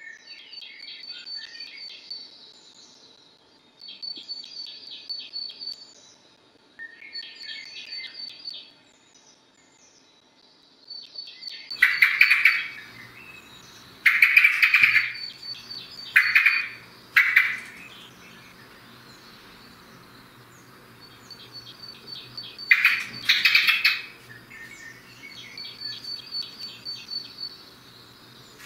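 Birdsong: a songbird repeats a short high phrase of quick downward notes ending in a trill, every few seconds. Several loud, harsh calls come from a closer bird about halfway through and again near the end.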